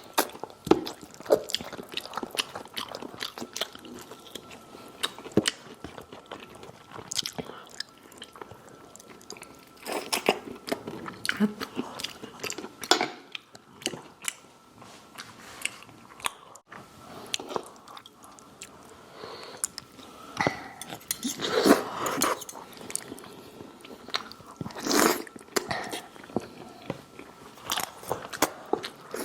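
Close-miked eating: crunchy bites and chewing of crispy food, irregular, with louder crunches about ten seconds in and again around twenty-one to twenty-five seconds. A faint steady high hum sits underneath.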